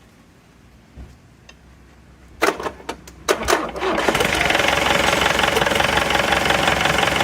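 TATA 407 SP 3.0-litre diesel engine being cranked by its starter, a short burst of uneven knocks, then catching about four seconds in and running steadily and loudly.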